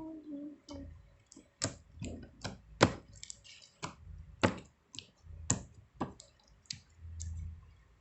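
A series of about a dozen sharp, irregularly spaced clicks and taps, like small hard objects being handled and set down, over a low handling rumble.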